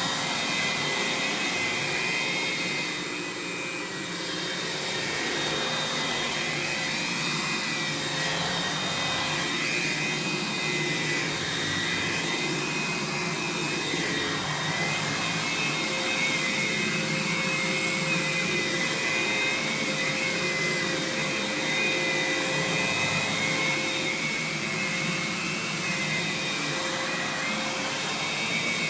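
Aerus Lux (Electrolux) Guardian upright vacuum running with both its 8.5-amp suction motor and 1.5-amp brush roll motor on, a steady whine with a high tone that swells and eases slightly.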